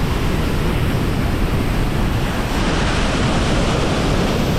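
Large, powerful waterfall at close range: a loud, steady rush of falling water.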